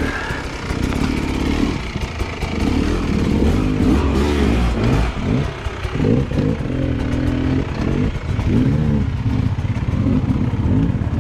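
Dirt bike engine revving up and down over and over, its pitch rising and falling every second or so.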